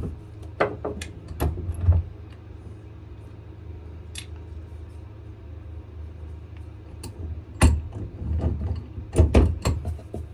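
Swivel vise clicking and knocking in two short clusters, about half a second in and again near the end, as it is loosened, turned and re-clamped to reposition a knife handle. A steady low hum runs underneath.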